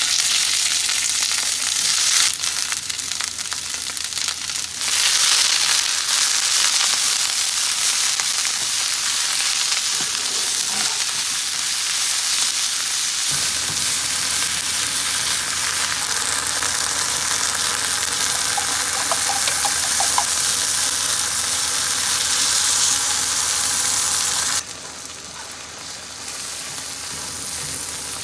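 Chinese chives sizzling in hot oil in a frying pan as they are stir-fried with wooden chopsticks. The sizzle starts suddenly as the greens go into the pan and drops to a quieter sizzle near the end, once the egg is in.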